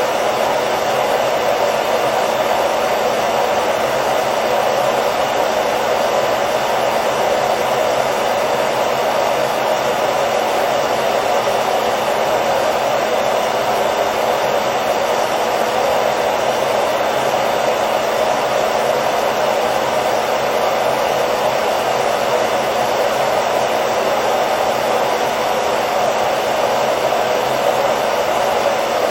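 Hair dryer running continuously with a steady, even whoosh of air and a low motor hum, played as white noise for baby sleep.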